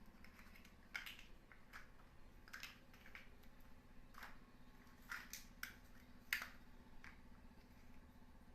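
Plastic building blocks clicking as pieces are handled and pressed together: a string of irregular light clicks, the sharpest about six seconds in.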